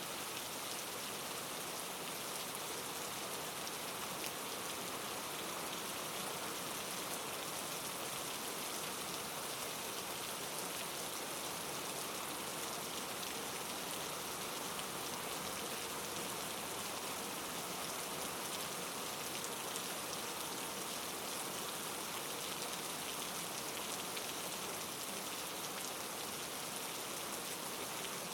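Steady rainfall, an even hiss of many fine drops hitting a surface, with no change in intensity.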